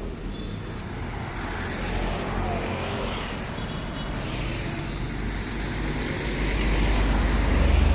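A motor vehicle's engine running with a steady low hum, growing louder over the last couple of seconds.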